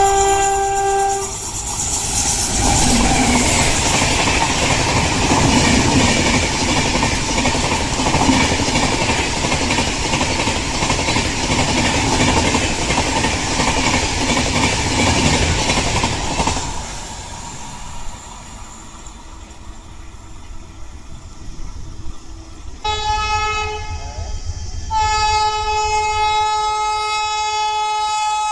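An Indian Railways express train passing at speed, with a loud rushing rumble of wheels on rail for about fifteen seconds after a horn blast cuts off at the start. After a quieter spell, a locomotive horn sounds twice near the end: a short blast, then a long one.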